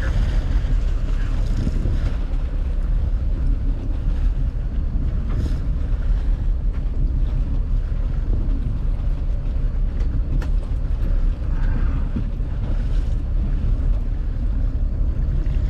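Boat under way: a steady low rumble with wind buffeting the microphone and the wash of water.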